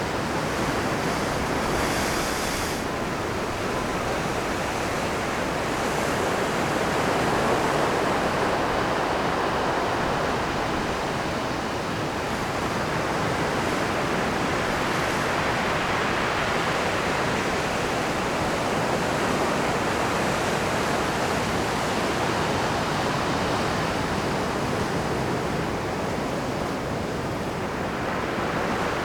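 Rough Pacific surf breaking on a rocky shore: a continuous wash of crashing waves and churning foam that swells and eases gently, with a brief higher hiss about two seconds in.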